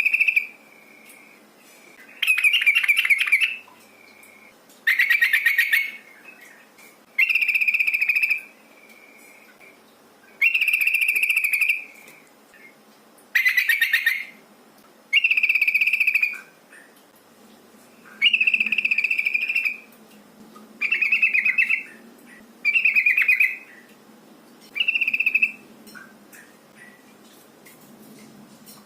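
Trucukan (yellow-vented bulbul) calling over and over, about a dozen short phrases roughly every two seconds. Some phrases are fast chattering and others are clearer held notes. This is the call presented as a female calling to draw a male into song.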